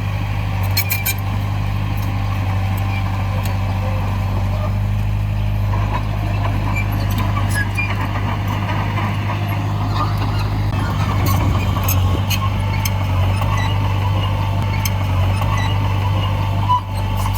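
Heavy diesel earthmoving machinery running steadily, a deep hum held throughout, with a few scattered sharp clanks.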